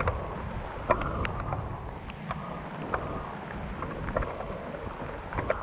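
Low, steady wind rumble on the camera microphone, broken by a series of sharp, irregular clicks and snaps, the loudest about a second in.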